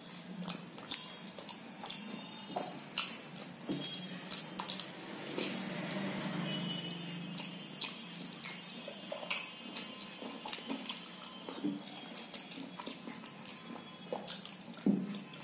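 A person eating rice and vegetable curry by hand up close: a string of short mouth clicks and smacks from chewing, with fingers working the food on a steel plate. A low hum runs for about two seconds midway.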